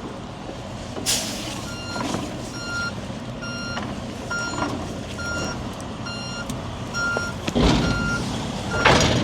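Truck backing up, its reversing alarm beeping steadily at one pitch over the engine running. Short hisses of air from the truck's air brakes come about a second in and again near the end.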